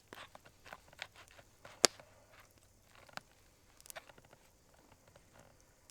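A fork clicking and scraping against cookware while food is served and eaten, with scattered light taps and one sharp click about two seconds in.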